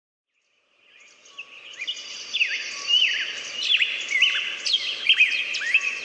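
Several birds chirping and singing, a steady stream of quick rising and falling whistles that fades in from silence about a second in.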